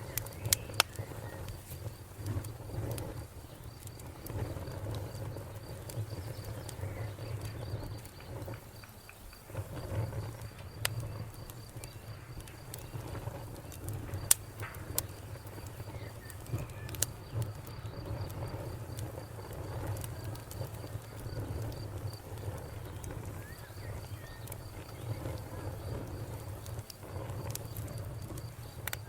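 Wood fire crackling and popping as logs burn slowly, over a low steady rumble of flame. The crackles are scattered and irregular, with one loud pop about halfway through.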